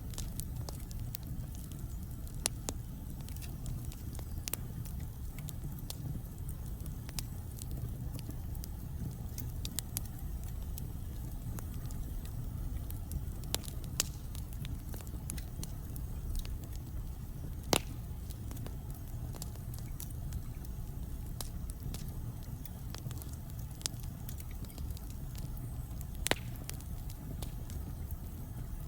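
Wood fire burning in a fireplace: a steady low rumble with irregular crackles and a few louder sharp pops from the burning logs.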